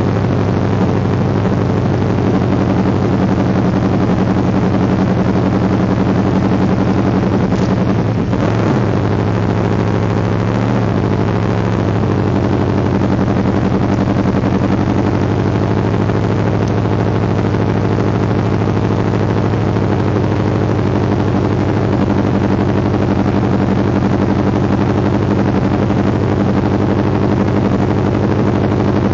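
Motorcycle engine idling steadily, heard close up from a camera mounted on the bike, with a short rise and fall in pitch about eight seconds in.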